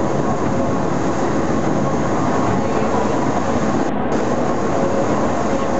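Pilatus Railway rack railcar running on the steep cog track, heard from inside the car: a steady rumble of wheels and drive with a faint steady whine.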